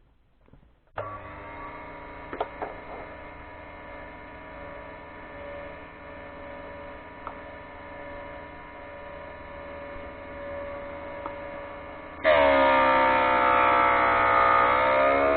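HBM 20 mm drill grinder's electric motor switched on about a second in and running with a steady hum, with a few light clicks. About twelve seconds in it turns much louder and its pitch sags and wavers as a drill bit is ground against the grinding wheel.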